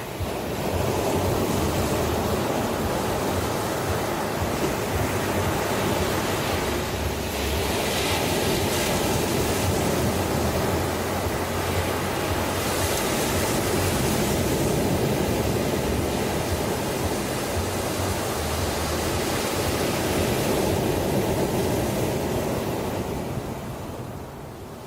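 Ocean surf breaking and washing ashore: one long surge that swells up about half a second in, hisses brighter twice in the middle, and ebbs away near the end.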